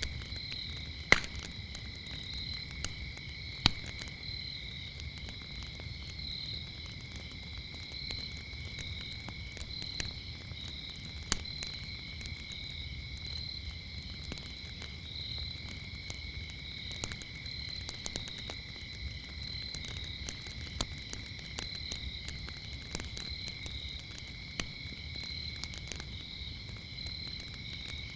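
Crickets chirping in a steady, continuous high trill over a wood fire that gives off scattered sharp crackles and pops, the loudest two within the first few seconds.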